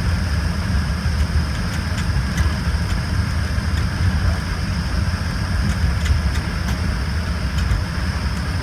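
Cabin noise inside an Embraer ERJ-145 regional jet, its Rolls-Royce AE 3007 turbofans at low, steady thrust. A steady low rumble with a steady high whine over it and a few faint clicks.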